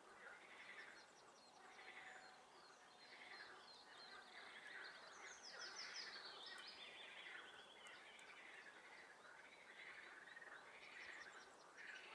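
Faint chorus of frogs calling from a swamp, their pulsed calls repeating about once a second. A songbird's rapid trill rises over them in the middle.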